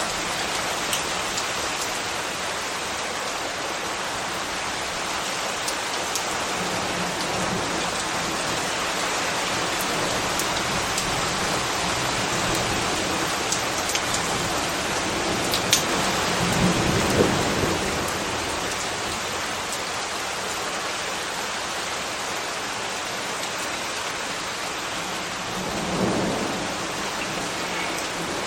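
Steady rain falling and pattering on surfaces, with a few sharp drips. A low swell builds and fades about halfway through, and a shorter one comes near the end.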